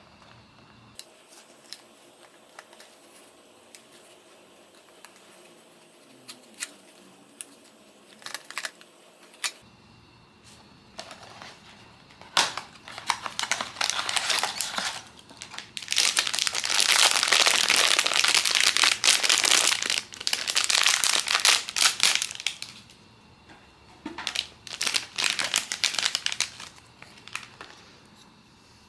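Blind box toy packaging being handled and unwrapped: a few light clicks and taps, then a long stretch of loud crinkling, and a shorter burst of crinkling near the end.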